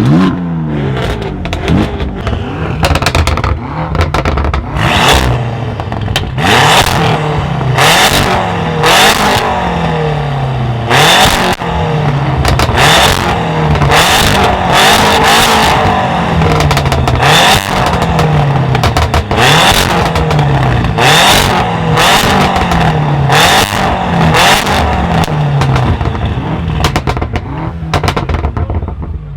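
A tuned car's engine revved hard in repeated blips, about one a second, the revs falling after each one, with loud pops and bangs from the exhaust throughout.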